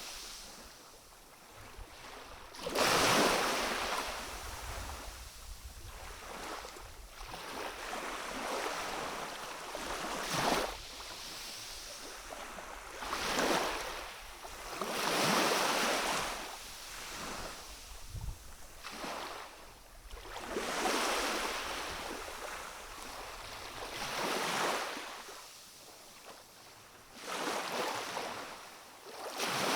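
Small waves of a calm sea washing in on a rocky shore, each one swelling and falling back in turn, every two to six seconds, the loudest about three seconds in.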